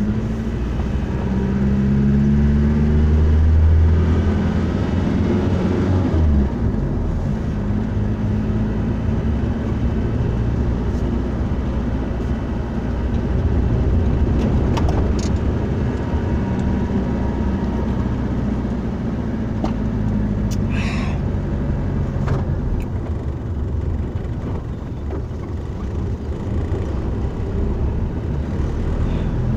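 Car driving: steady engine and road noise, with the engine note swelling and changing pitch in the first six seconds or so.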